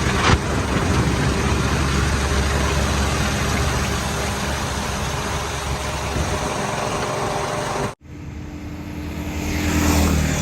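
Heavy diesel engine of earth-moving machinery running steadily. About eight seconds in the sound cuts off abruptly, and an engine then swells louder toward the end.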